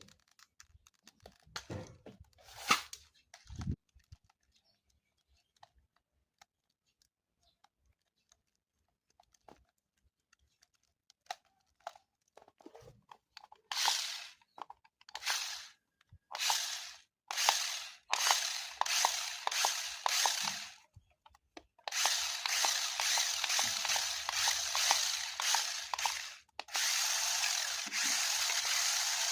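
Handling clicks and crinkles, then a small toy electric motor running through plastic gears in short buzzing bursts from about halfway. Near the end it runs without a break.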